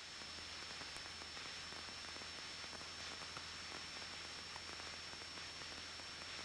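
Faint steady electrical hiss with a low hum and a thin high whine underneath: the idle background of a cockpit intercom and radio audio feed while nobody is talking.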